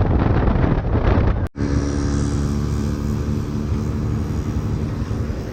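Motorcycle on the move with wind rushing over the microphone, then after a sudden cut about a second and a half in, an engine running steadily with an even hum at constant pitch.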